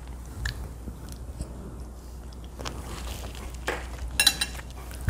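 A person chewing food, with a metal fork clinking against a ceramic bowl, most clearly about four seconds in, over a steady low hum.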